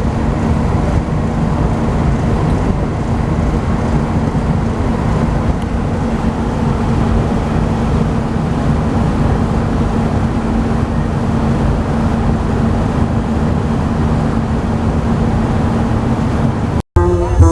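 An engine running steadily, with a constant low hum through it; the sound cuts off abruptly near the end.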